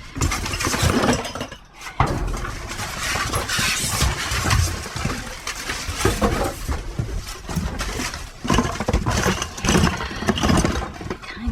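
Rummaging through trash in a dumpster: rustling and many knocks and clatters of objects being moved and handled, over a steady low rumble.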